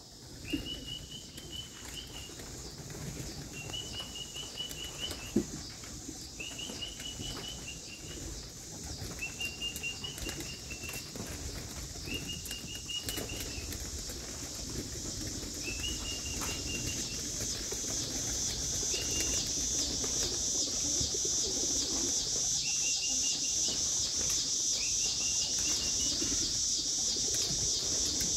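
Pigeons' wings flapping at the loft while a small bird repeats a short, high call about every two seconds. Behind them a high, pulsing insect chorus grows steadily louder.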